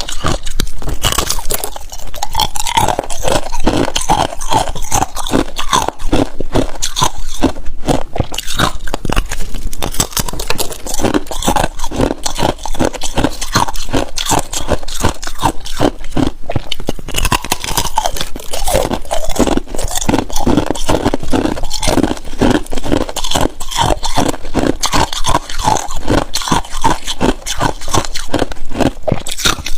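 Ice being bitten and chewed close to the microphone: rapid, continuous crunching and cracking of hard ice between the teeth.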